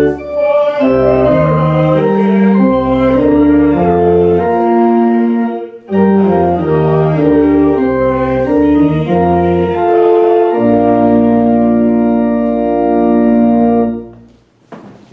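Organ playing slow sustained chords with deep bass notes, pausing briefly about six seconds in, then holding a long final chord that stops near the end. A short knock follows.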